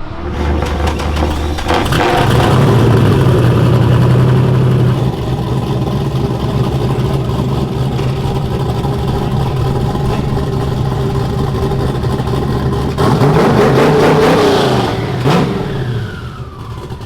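Twin-turbo Fox-body Mustang drift car's engine running steadily, picking up about two seconds in, then revving up and dropping back near the end.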